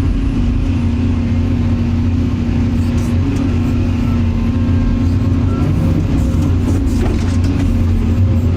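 Excavator's diesel engine running steadily, a low, even drone with a held hum.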